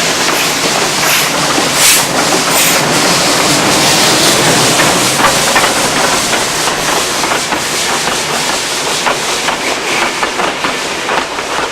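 Steam train running on the rails: a steady rushing hiss, with wheels clicking over rail joints more often in the second half.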